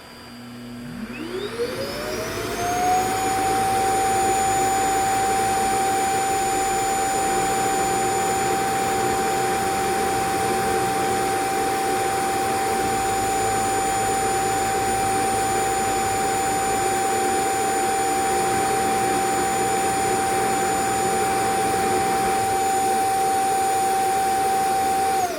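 Eufy Clean X8 Pro robot vacuum's suction motor spinning up in a rising whine, then running at a steady high whine over a rushing air noise at its second-strongest of four suction settings, winding down right at the end.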